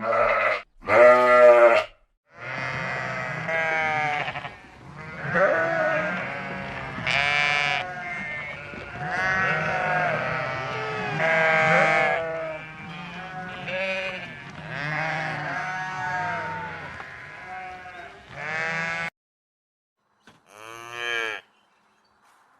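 Sheep bleating: two short bleats, then many overlapping bleats as from a flock for about seventeen seconds, and after a brief pause one more bleat near the end.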